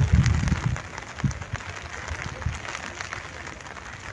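Steady patter of gentle rain, made of many small drops, with a low rumble in about the first second.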